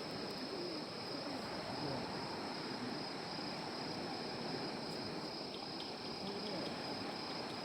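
Wood campfire burning with a steady hiss and a few small crackles a little after halfway, over a steady high-pitched hum.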